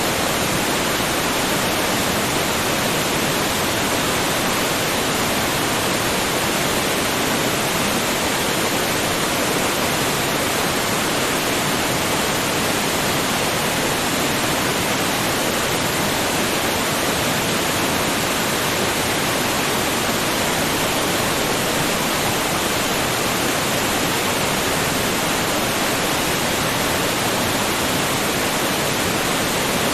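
Waterfall: water falling with a steady, even rushing hiss that never changes.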